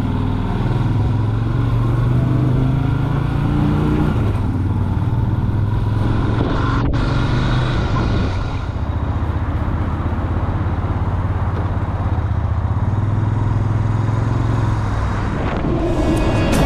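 Yamaha Virago V-twin motorcycle engine running while riding, its pitch stepping up and down several times. Music comes in at the very end.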